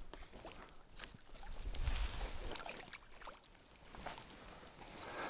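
Scattered small knocks and clicks of gear being handled in a small boat, with low wind rumble and hiss on the microphone.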